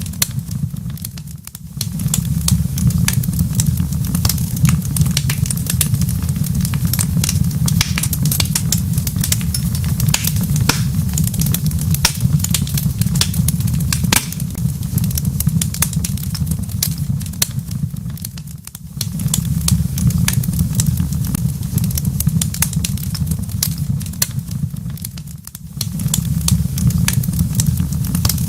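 Wood fire in a fireplace crackling, with many sharp pops and snaps over a steady low rumble. The sound dips briefly three times.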